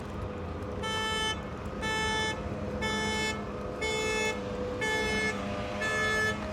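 Car alarm sounding the horn in regular blasts, about one half-second honk a second, six in all, over a steady low hum. It cuts off suddenly near the end.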